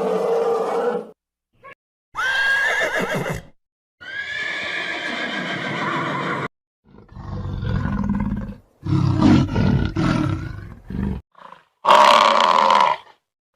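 A run of separate animal calls, each a second or two long, with short silent gaps between them. The first two are high and drawn out, the next are low-pitched, and the last is loud.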